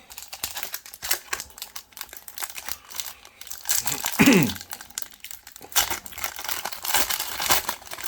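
Foil booster pack wrapper crinkling and being torn open, a dense irregular crackle of thin plastic foil. A brief falling tone comes about halfway through.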